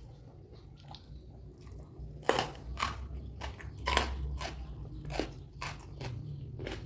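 Crisp, crunchy bites into raw food and chewing, close to the microphone: soft chewing at first, then a run of sharp cracks from about two seconds in, the loudest near the start of that run and another about four seconds in.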